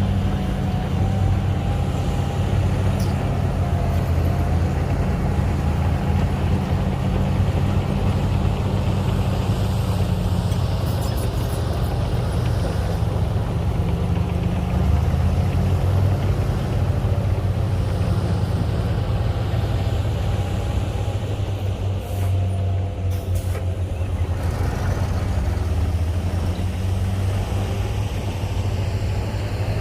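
Heavy earthmoving diesel engine running steadily under load, with a faint wavering whine above the low engine hum. A few short clicks come through, one early and a couple about two-thirds of the way in.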